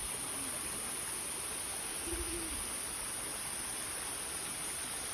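Steady outdoor forest ambience: an even background noise with a continuous high hiss, and one short, low hoot-like call just over two seconds in.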